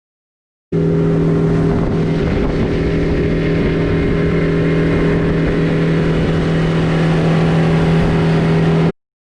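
Boat engine running steadily under way, a constant low hum over a rushing noise. It starts abruptly under a second in and cuts off abruptly near the end.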